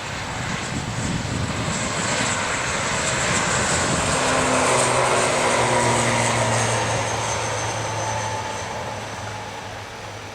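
ATR 72-600 twin-turboprop airliner departing, its engines and propellers swelling to a peak about halfway and fading as it passes, with a steady low drone and a high whine. Rain hiss lies underneath.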